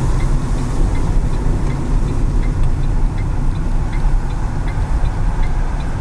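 Car driving on rain-wet streets: a steady low rumble of engine and road with tyre hiss, and a light ticking at a regular pace of roughly one to two ticks a second.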